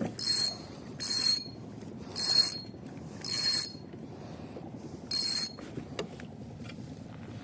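Fishing reel cranked in five short bursts, each about half a second of high, whirring mechanical rasp from the reel's gearing.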